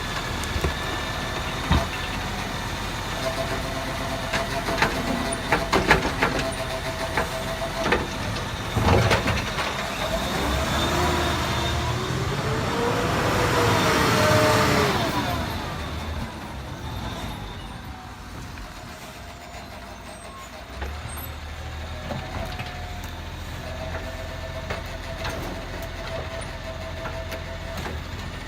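Garbage truck's diesel engine running in the street, with scattered knocks and clanks in the first third. Around the middle a vehicle passes, building to the loudest point and then fading, before a steady low engine hum carries on.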